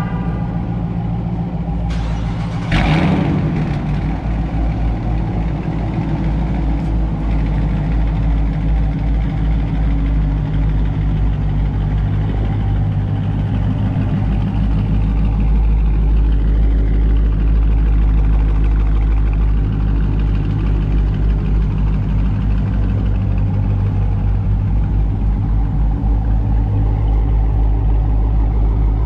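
Two Dodge Charger Hemi V8s, a 5.7 and a 6.4, both with mid-muffler deletes, idling warm side by side with a deep, steady exhaust drone. About three seconds in there is a brief loud flare that fades over a second, and the low drone grows fuller from about twelve seconds on.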